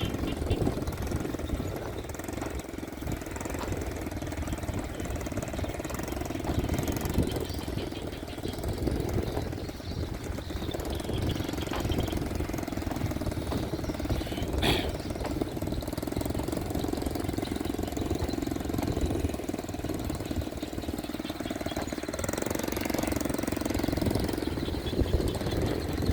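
Motorbike engine running steadily with a rapid pulsing beat, with one brief sharp click about halfway through.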